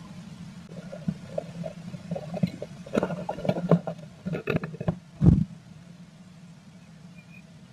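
Blue tit sitting on eggs in a nest box, shifting in the nest cup: scratchy rustling of nest material and small knocks, with a louder thump about five seconds in. A steady low hum runs underneath.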